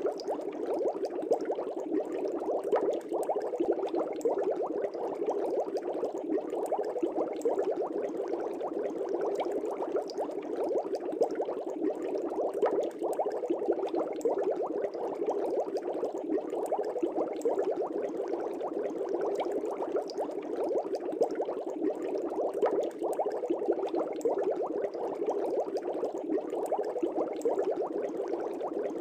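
Aquarium air bubbles rising and bursting at the water surface in a steady, dense stream of small bubbling and popping.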